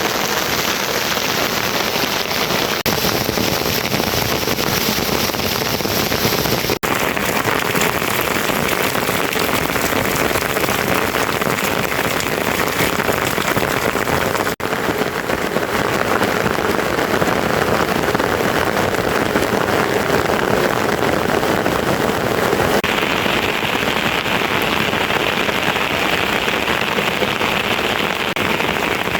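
Steady rain: a continuous hiss of falling water. The sound breaks off for an instant and shifts in tone about seven seconds in and again about fifteen seconds in, and changes once more near the end.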